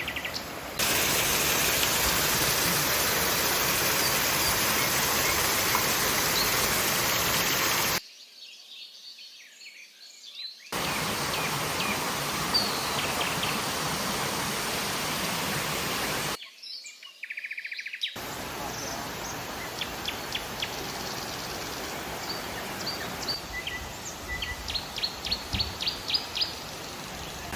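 Rainforest ambience: a steady rushing noise, broken twice by abrupt cuts, with birds chirping over it. Near the end a bird gives a quick run of about ten sharp, high chirps.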